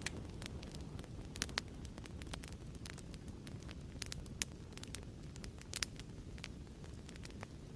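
Wood fire crackling in a fireplace: irregular sharp pops and snaps over a steady low rush of the flames, with a few louder pops about a second and a half in and just before six seconds.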